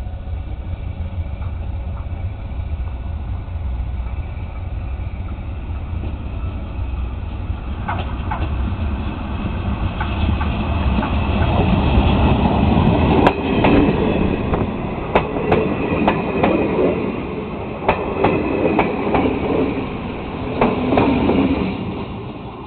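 Train running along the track: a steady low rumble, with the wheels clacking over rail joints. The clacks grow louder and more frequent from about eight seconds in, then ease off near the end.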